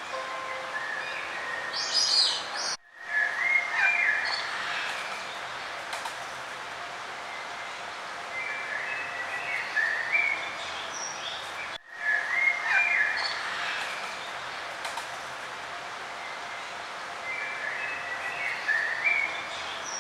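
Several songbirds chirping and singing in short warbling phrases over a steady outdoor hiss. The whole sound cuts out briefly twice, about three seconds in and again about twelve seconds in.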